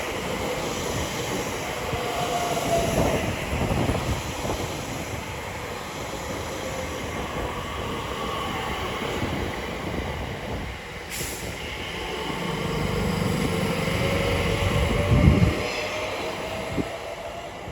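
Electric multiple-unit passenger train running through the station, with a steady rumble and wheel noise. A faint electric whine falls in pitch near the start and rises again in the last few seconds. There is a short sharp click about eleven seconds in and a low thump about fifteen seconds in.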